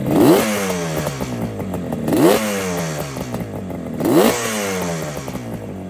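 1976 Yamaha RD400's two-stroke twin engine revved with three quick throttle blips about two seconds apart, each rising sharply and then falling slowly back toward idle.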